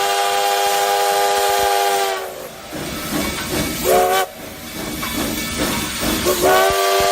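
A WAP5 electric locomotive's multi-tone air horn sounds a long blast that sags in pitch as it ends. Rushing train noise follows, with a short, higher blast about four seconds in and another blast starting near the end.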